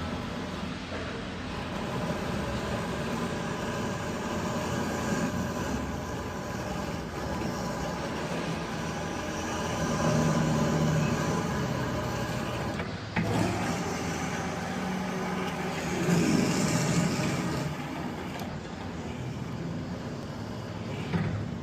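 A heavy machine running steadily, with a sharp knock about 13 seconds in and a louder stretch a few seconds later.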